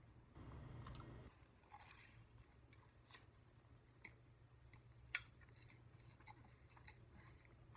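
Faint chewing of a mouthful of pizza, with a few small, sharp mouth clicks over a low steady hum.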